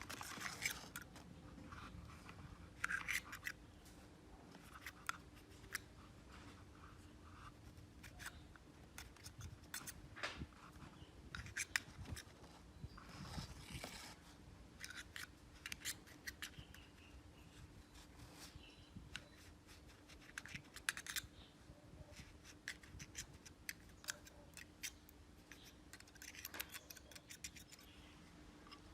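Irregular small clicks and scraping from hand work on a metal Zippo lighter, with a faint steady hum underneath.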